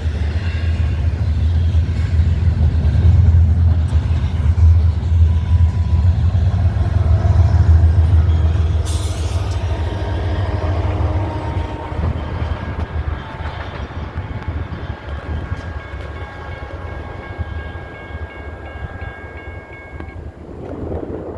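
Freight train running past: a heavy low rumble, loudest for the first eight seconds or so, then fading steadily as the train moves away. Faint steady high-pitched tones ring in the latter half, and there is a brief hiss about nine seconds in.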